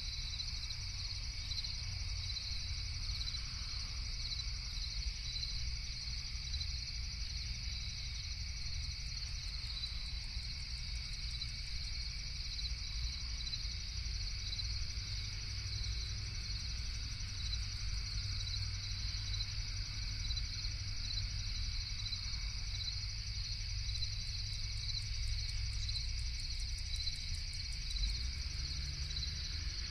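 Night chorus of crickets chirping steadily in a high, rapidly pulsing trill, over a low steady rumble.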